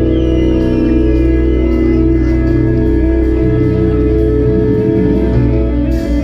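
Live rock band playing a sustained, droning passage of held guitar and bass notes with light regular cymbal ticks, the closing stretch of the song.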